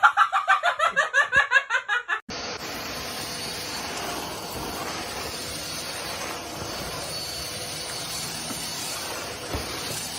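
A person laughing in a quick run of short bursts for about two seconds, then an abrupt cut to a steady background hiss.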